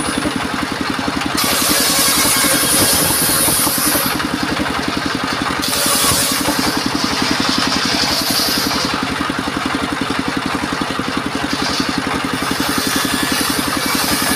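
Engine of a portable circular sawmill running steadily with an even pulsing beat, while a high hiss from the saw comes and goes several times as the blade cuts.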